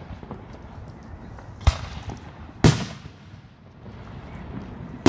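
Aerial firework shells bursting: two sharp bangs about a second apart, roughly a second and a half and two and a half seconds in. The second is the louder and trails off in a brief echo, and a third bang comes right at the end.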